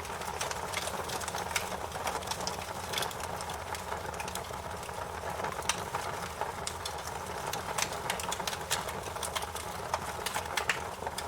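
Wood fire burning in a fireplace, crackling and popping with many irregular sharp snaps over a steady hiss of flames.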